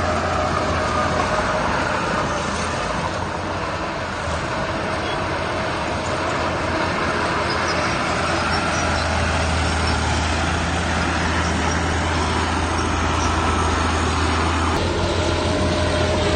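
Heavy diesel engine of a work machine such as a dump truck or bulldozer running steadily, with a constant low hum and a steady whine above it.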